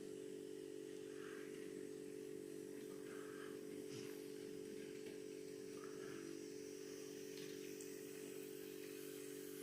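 Model N gauge train running on the layout: a steady, quiet electric motor hum with faint light clicks every second or so.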